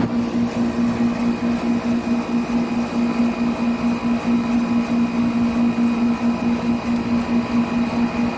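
1995 Tempstar central air conditioner's outdoor condensing unit running, its Copeland reciprocating compressor giving a steady hum with a regular pulsing beat under the whoosh of the condenser fan.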